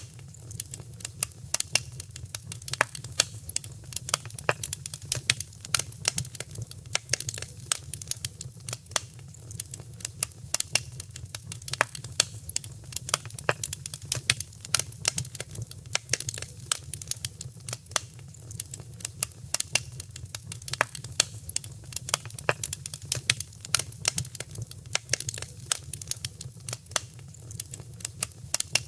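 Wood fire crackling, with dense irregular pops and snaps over a steady low rumble of the flames.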